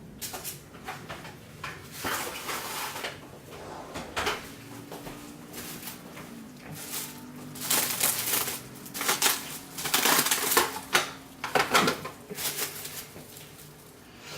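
Irregular clattering and scraping of kitchen utensils and containers while solid lard is added to the weighed soap ingredients, busier and louder in the second half.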